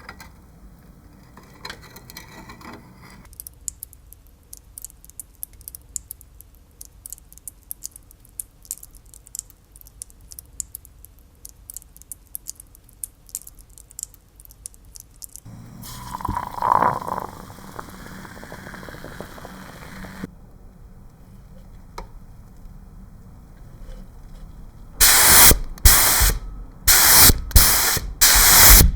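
Paint spray hissing in several short bursts near the end, the loudest sound here, as a part of the scale-model truck is sprayed. Earlier there is a long run of fine rapid ticking and scratching, like small hand work on the model's surface, and a shorter steady hiss in the middle.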